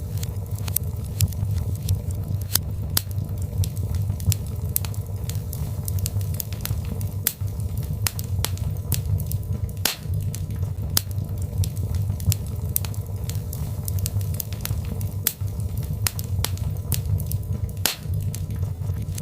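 Birchwood fire crackling in a fireplace: many sharp pops and snaps at irregular intervals over a steady low rumble of the flames.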